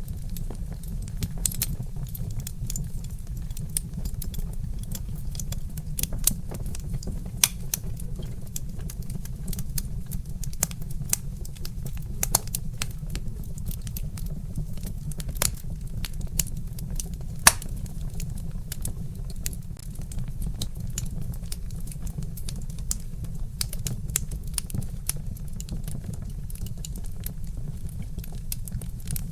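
Wood fire crackling in a fireplace: irregular sharp pops and snaps from burning logs over a steady low rumble, with a few louder pops scattered through.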